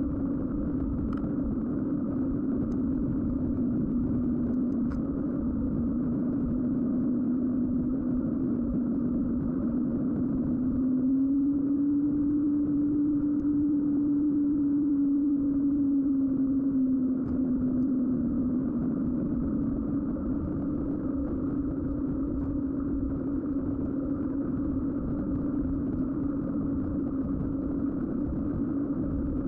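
Mountain bike's knobby Schwalbe winter tyres humming on the road surface while riding, a steady drone whose pitch rises slightly for a few seconds in the middle as speed picks up, then settles back.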